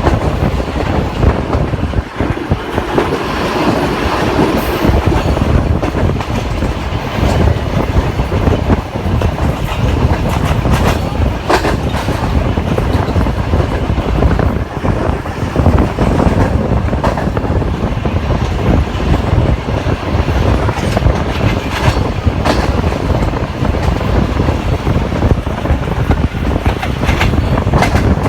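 Pakistan Railways Green Line express running on the track: a steady loud rumble of wheels on rail with scattered sharp clacks over rail joints.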